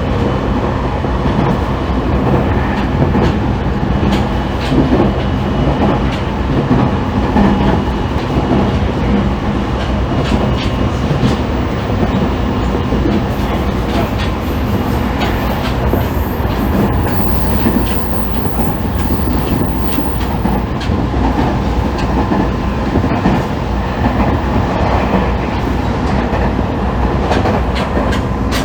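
E501 series electric train running at steady speed, heard from inside a motor car (MoHa E500). There is a continuous rumble of wheels on rail, with faint steady motor tones and scattered clicks from rail joints.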